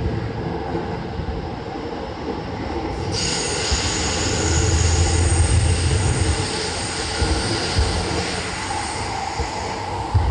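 Toei 10-300 series electric train running at speed, heard on board. About three seconds in, a steady high squeal joins the rumble of the running noise and holds for several seconds.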